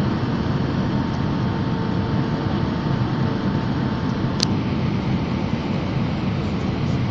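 Steady in-flight noise of an airplane heard from inside the cabin: an even rush of engines and airflow, heaviest in the low range, with a faint steady tone. A single short click about four and a half seconds in.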